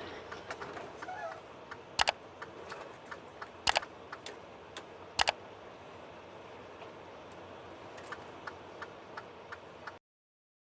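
A series of sharp clicks and ticks over a low background hiss. Three loud double clicks come about a second and a half apart, and a quicker run of lighter ticks comes near the end before the sound cuts off suddenly.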